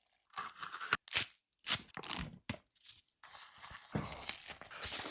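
Crinkling and tearing of a snack's plastic wrapper with crunching, in a series of short separate crackles.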